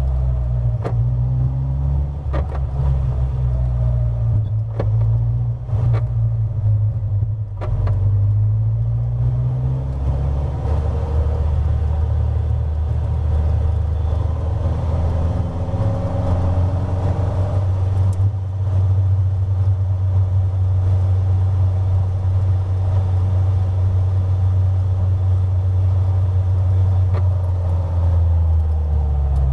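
Caterham Roadsport race car's four-cylinder engine running at low revs as the car rolls slowly on a cool-down lap, heard from the open cockpit: a steady low drone that shifts in pitch a few times during the first ten seconds, with several sharp knocks early on, then holds level.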